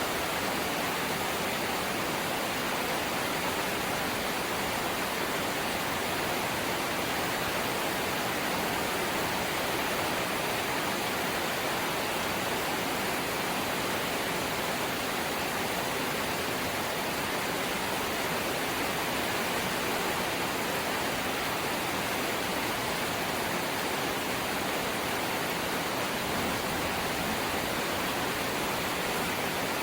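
Steady rain on a corrugated zinc roof, a dense even hiss with no separate drops or breaks.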